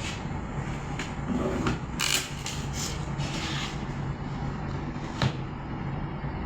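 A steady low engine hum, with a few knocks, a burst of rattling about two seconds in and a sharp click near the end.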